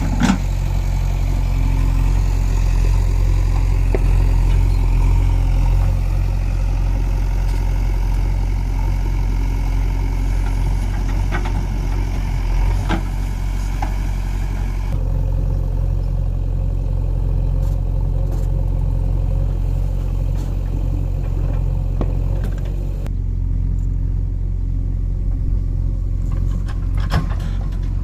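Mahindra 585 DI tractor's four-cylinder diesel engine running steadily with a low, even note.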